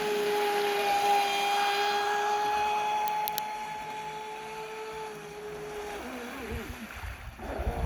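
RC model boat's motor whining at a steady pitch across the water. About six seconds in, the whine drops in pitch and wavers as the boat eases off.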